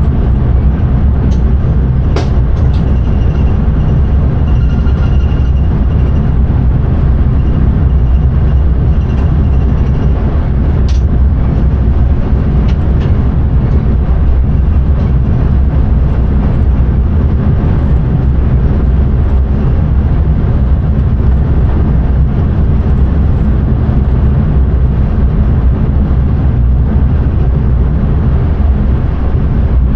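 An intercity train running at speed, heard from the driver's cab: a loud, steady low rumble, with a few light clicks in the first dozen seconds.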